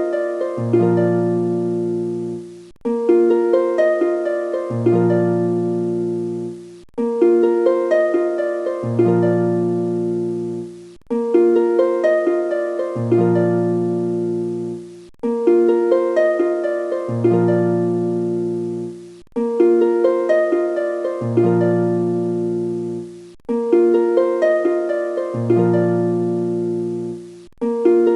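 Background music: a short phrase of plucked-string notes played as a loop, restarting about every four seconds.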